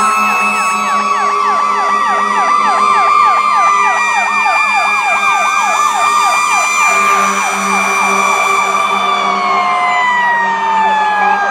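Several fire apparatus sirens sounding at once: a fast yelp zigzagging over slower wailing tones. About nine seconds in, one siren falls slowly in pitch as it winds down.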